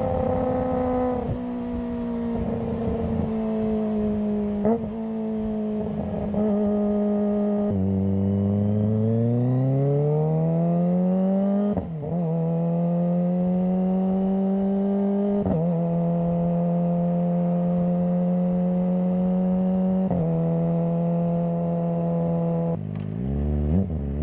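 Kawasaki ZX-25R's 250 cc inline-four engine and exhaust under way. It accelerates with a rising pitch, then dips briefly three times as it shifts up, holding a steady pitch between shifts. The pitch falls near the end as it slows.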